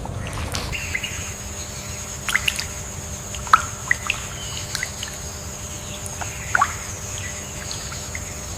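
Mangrove wetland ambience: a steady low wash of wind and water, with a high, thin, even insect-like tone setting in about a second in. Scattered short chirps and drips stand out over it, the sharpest about three and a half and six and a half seconds in.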